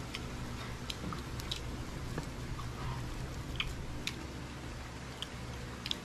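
Close-up eating sounds: chewing, with scattered short mouth clicks and the fingers picking flesh off a grilled fish. A steady low hum runs underneath.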